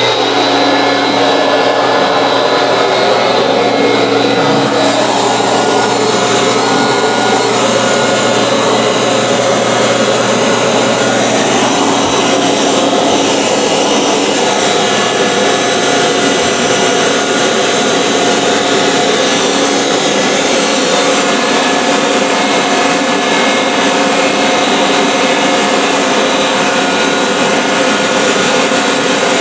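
Vacuum cleaner motor running steadily with a loud whine and rush of air.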